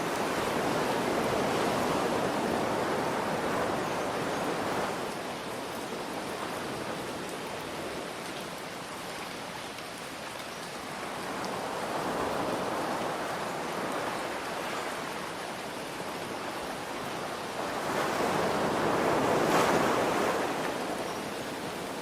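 Ocean waves washing in three times, the last the loudest, each swelling and then easing away, over a steady hiss of gentle rain.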